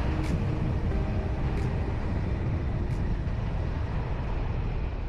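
A vehicle on the move, with a steady low rumble of engine and road noise.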